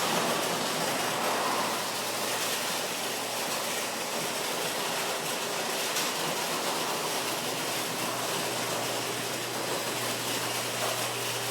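Electric garage door opener running as the door rolls open: a steady mechanical noise with a low hum underneath that grows slightly stronger near the end.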